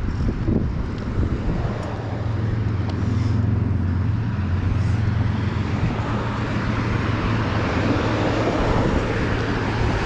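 Road traffic passing: car engines and tyre noise, with a steady low engine hum through the middle and a broader rush of a passing car toward the end.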